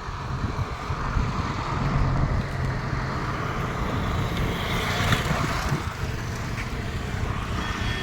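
A vehicle running with a steady low rumble and a rushing noise that swells through the middle and then eases off.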